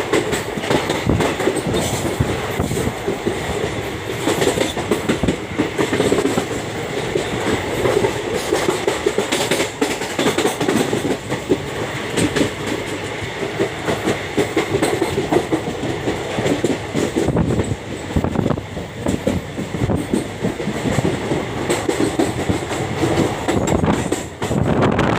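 Train running along the rails, with the wheels clattering over rail joints in an uneven run of clacks over a steady rumble.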